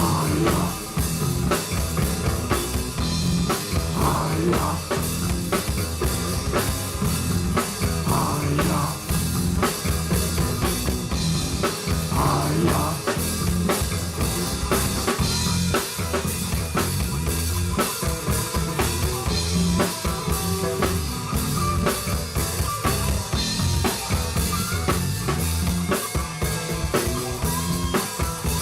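Band music played live, with the drum kit driving a steady beat of kick, snare and rim hits over a bass line.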